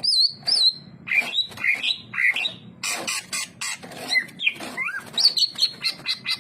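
Green leafbird (cucak ijo) singing a rapid, varied song of short whistled notes that slur up and down, interspersed with short harsh chattering notes.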